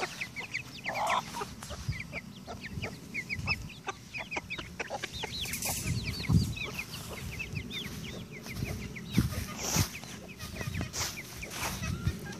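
Free-ranging chickens clucking and calling, with many short high-pitched chirps throughout. A few louder knocks stand out, one about six seconds in and one near ten seconds.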